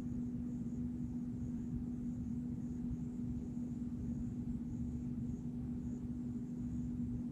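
A steady low hum on one held pitch over a constant low rumble, unchanging throughout.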